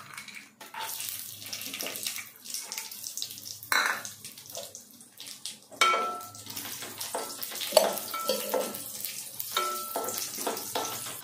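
Cashew nuts sizzling as they fry in hot ghee in a pan, with a spoon now and then clinking against the pan as they are stirred.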